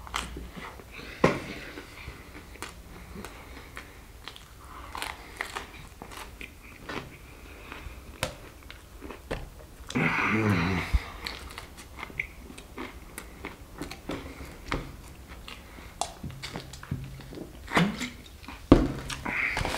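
Close-up eating sounds: biting and chewing pizza and crunchy breaded fried chicken, with many sharp crunches and wet mouth clicks. There is a louder stretch of chewing about ten seconds in, and a swig from a plastic bottle near the end.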